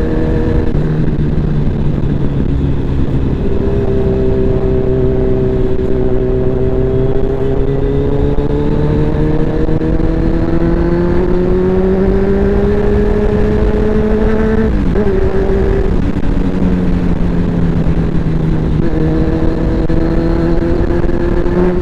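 Kawasaki Z1000 inline-four motorcycle engine running under way, its note slowly rising in pitch. About fifteen seconds in it dips briefly, as at a gear change, then comes back lower and climbs again.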